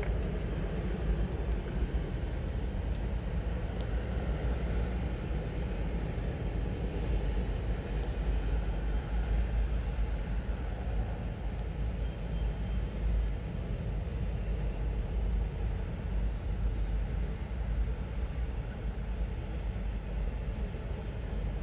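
Freight train of autorack cars rolling past: a steady low rumble of steel wheels on the rails, with a few faint clicks.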